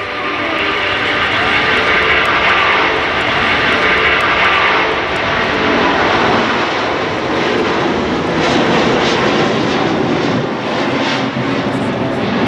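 Airbus A380's four turbofan engines running loud. The roar builds over the first couple of seconds, with a whining fan tone over it, and turns rougher and crackling later on.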